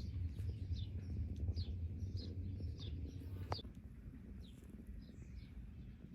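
Songbird chirping outdoors: a run of short, high, falling chirps about two a second. Under it is a low rumble of wind on the microphone that eases about halfway through, and there is a single click just before it eases.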